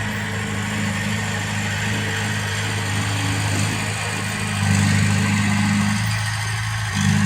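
Heavy diesel engine running steadily at low speed. It gets louder for about a second twice, around five seconds in and again near the end.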